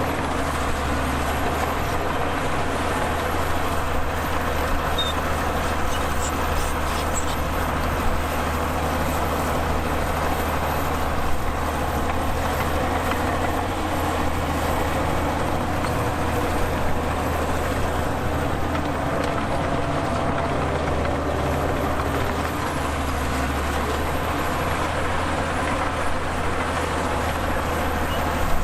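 Heavy diesel earthmoving machinery running steadily under load, a deep engine drone with a few light knocks.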